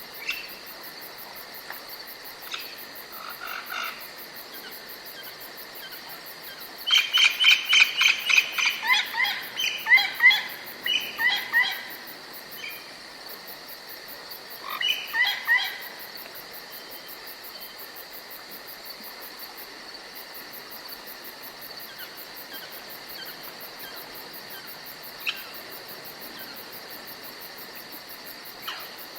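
Steady high insect chirring, with a songbird singing a loud run of quick repeated notes about a quarter of the way in and a shorter phrase a few seconds later, plus a few single short calls.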